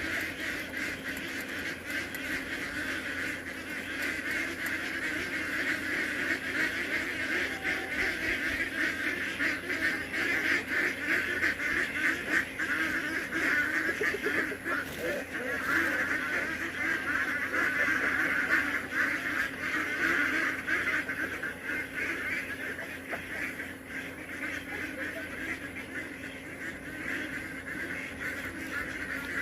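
A flock of domestic ducks quacking and honking continuously, many birds calling over one another, growing somewhat louder in the middle.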